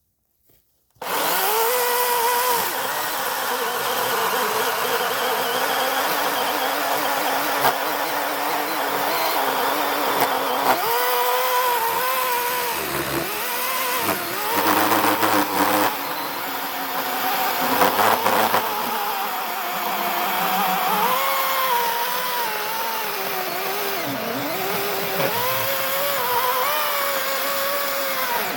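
A small petrol engine starts sounding abruptly about a second in and runs on steadily. Its pitch wavers, dipping and recovering several times as if the engine is under load.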